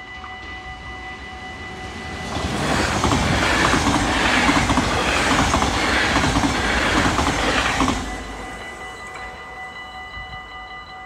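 NS yellow double-deck electric passenger train passing over a level crossing, from about two seconds in until it cuts off at about eight seconds, with its wheels clattering over the rail joints. The crossing's warning bell rings steadily beneath it throughout.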